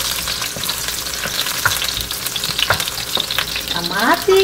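Onion and garlic sizzling in hot olive oil in a nonstick wok, stirred with a wooden spatula: a steady hiss with a few sharp ticks.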